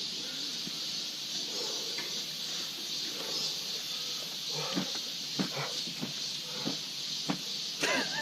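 Steady high-pitched hiss of outdoor background noise, with faint distant voices now and then.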